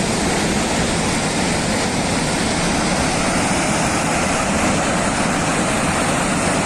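Rushing floodwater: a loud, steady, unbroken noise spread evenly from low to high.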